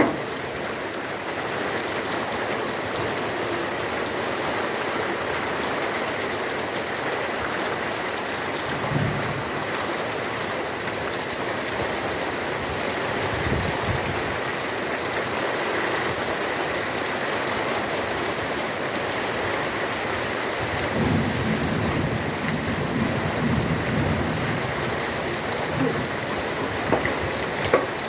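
Heavy rain falling steadily. Low rumbles of thunder come briefly about nine and fourteen seconds in, and a longer one rolls through from about twenty-one to twenty-five seconds.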